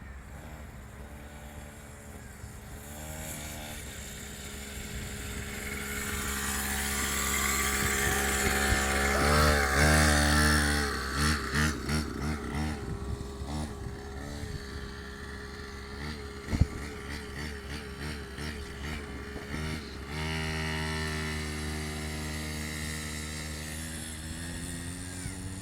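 Mini dirt bike engine running, growing louder over the first ten seconds as it comes closer. It revs up and down several times, then settles to a steadier pitch. A single sharp click is heard past the middle.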